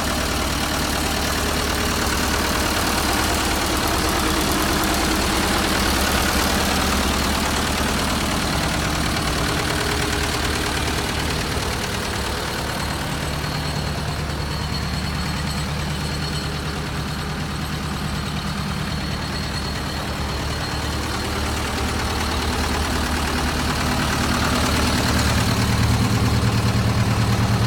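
Zetor tractor's diesel engine running steadily at a low speed, growing louder in the last few seconds.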